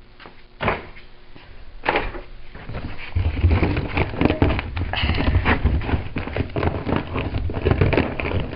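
Handling noise from old dryer vent ducting being worked at by hand: a couple of sharp knocks, then from about three seconds in a dense run of crackling, rustling and scraping.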